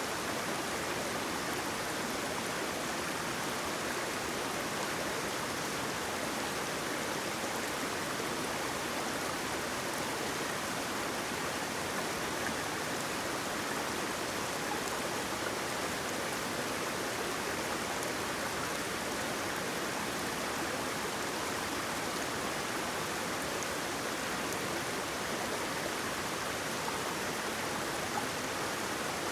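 Waterfall: a steady, even rush of falling and flowing water with no breaks or changes.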